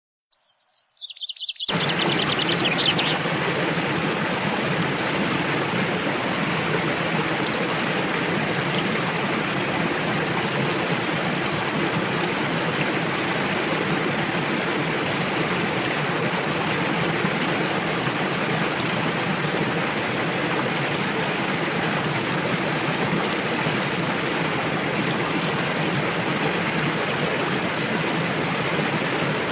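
Fast-flowing river rushing steadily, a constant even roar of water that cuts in abruptly under two seconds in. A songbird trills faintly just before it, and a bird gives a few short, high chirps about halfway through.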